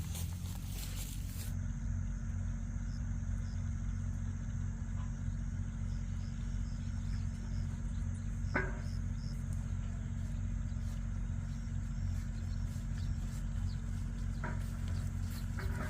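A machine running with a steady low hum. A few light clicks sound over it, one about halfway through and two near the end.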